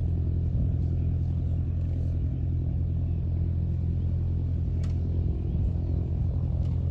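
An engine running steadily at a low, even pitch, with a short click about five seconds in.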